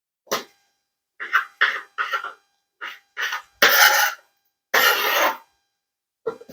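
A person coughing: a run of about eight short coughs, the two loudest and longest a little past halfway.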